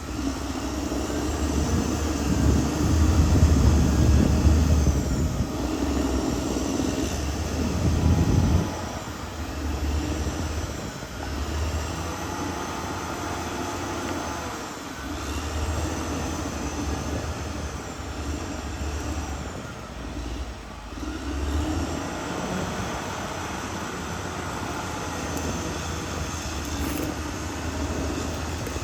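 Caterpillar D6R XL bulldozer's diesel engine working under changing load, loudest in the first several seconds and easing off sharply about eight seconds in. A high, wavering squeal comes and goes over the engine.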